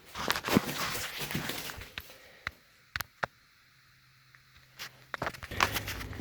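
Footsteps and rustling handling noise, with a few sharp clicks during a quiet stretch in the middle.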